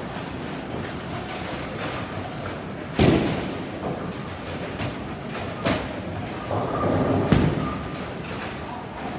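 Bowling alley sounds over a steady background din: a heavy thump about three seconds in, a few sharp knocks, then a rolling, clattering rumble peaking around seven seconds, typical of bowling balls on lanes and pins being struck.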